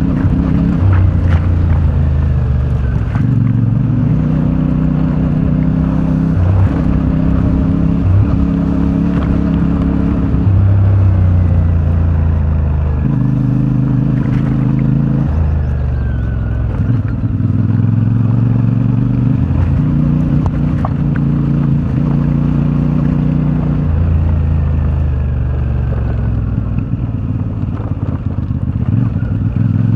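CFMoto 450MT's parallel-twin engine running under way, its pitch holding for a second or two and then stepping or gliding up and down as the throttle opens and closes.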